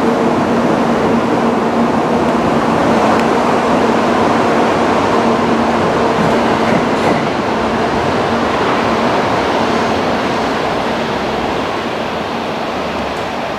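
N700 series Shinkansen departing along the platform: a steady running rumble with a low hum, easing off near the end as the last car goes by.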